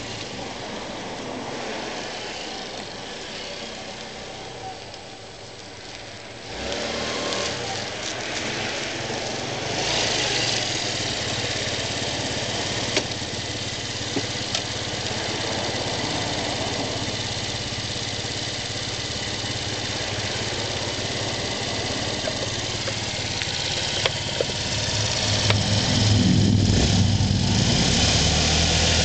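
Kymco V-Link 125 scooter's single-cylinder engine running at idle after starting, with the sound getting louder about a quarter of the way in and again near the end.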